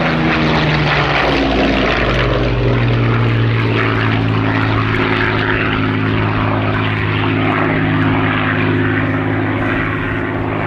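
Rolls-Royce Merlin V12 piston engine of a WWII fighter flying past: its pitch drops about a second or two in as it goes by, then the engine note holds steady and loud.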